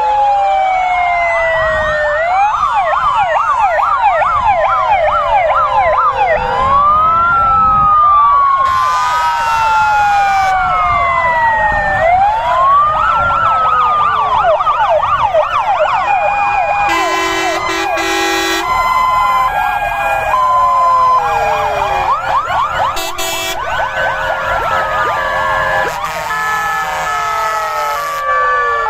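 Many emergency-vehicle sirens sounding at once as a column of fire engines passes with signals on: overlapping slow wailing and fast yelping sirens, with stepped two-tone hi-lo signals joining in during the second half.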